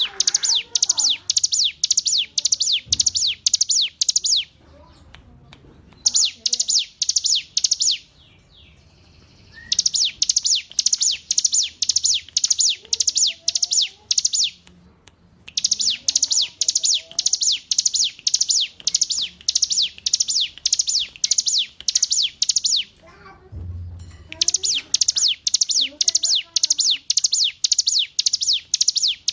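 Ciblek gunung (a prinia) singing: long runs of fast, sharp, high notes that each drop in pitch, about four a second, broken by short pauses. Fainter, lower bird calls sound underneath.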